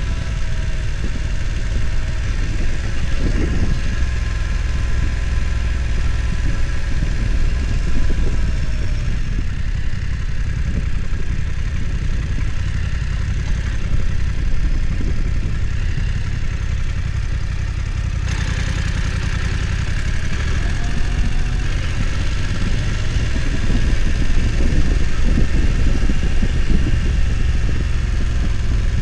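BMW F900 XR motorcycle's parallel-twin engine running steadily, its pitch drifting gently up and down now and then.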